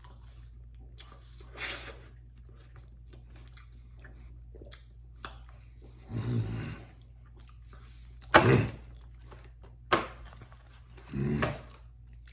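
Close-up, open-mouthed chewing and lip-smacking of chicken wings, with many small wet clicks, broken by about five short, louder low grunts, the loudest just past the middle.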